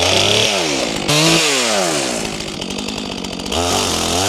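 Stihl MS400C two-stroke chainsaw engine revved up and dropping back twice, idling low for a moment, then revved up again and held at high speed near the end.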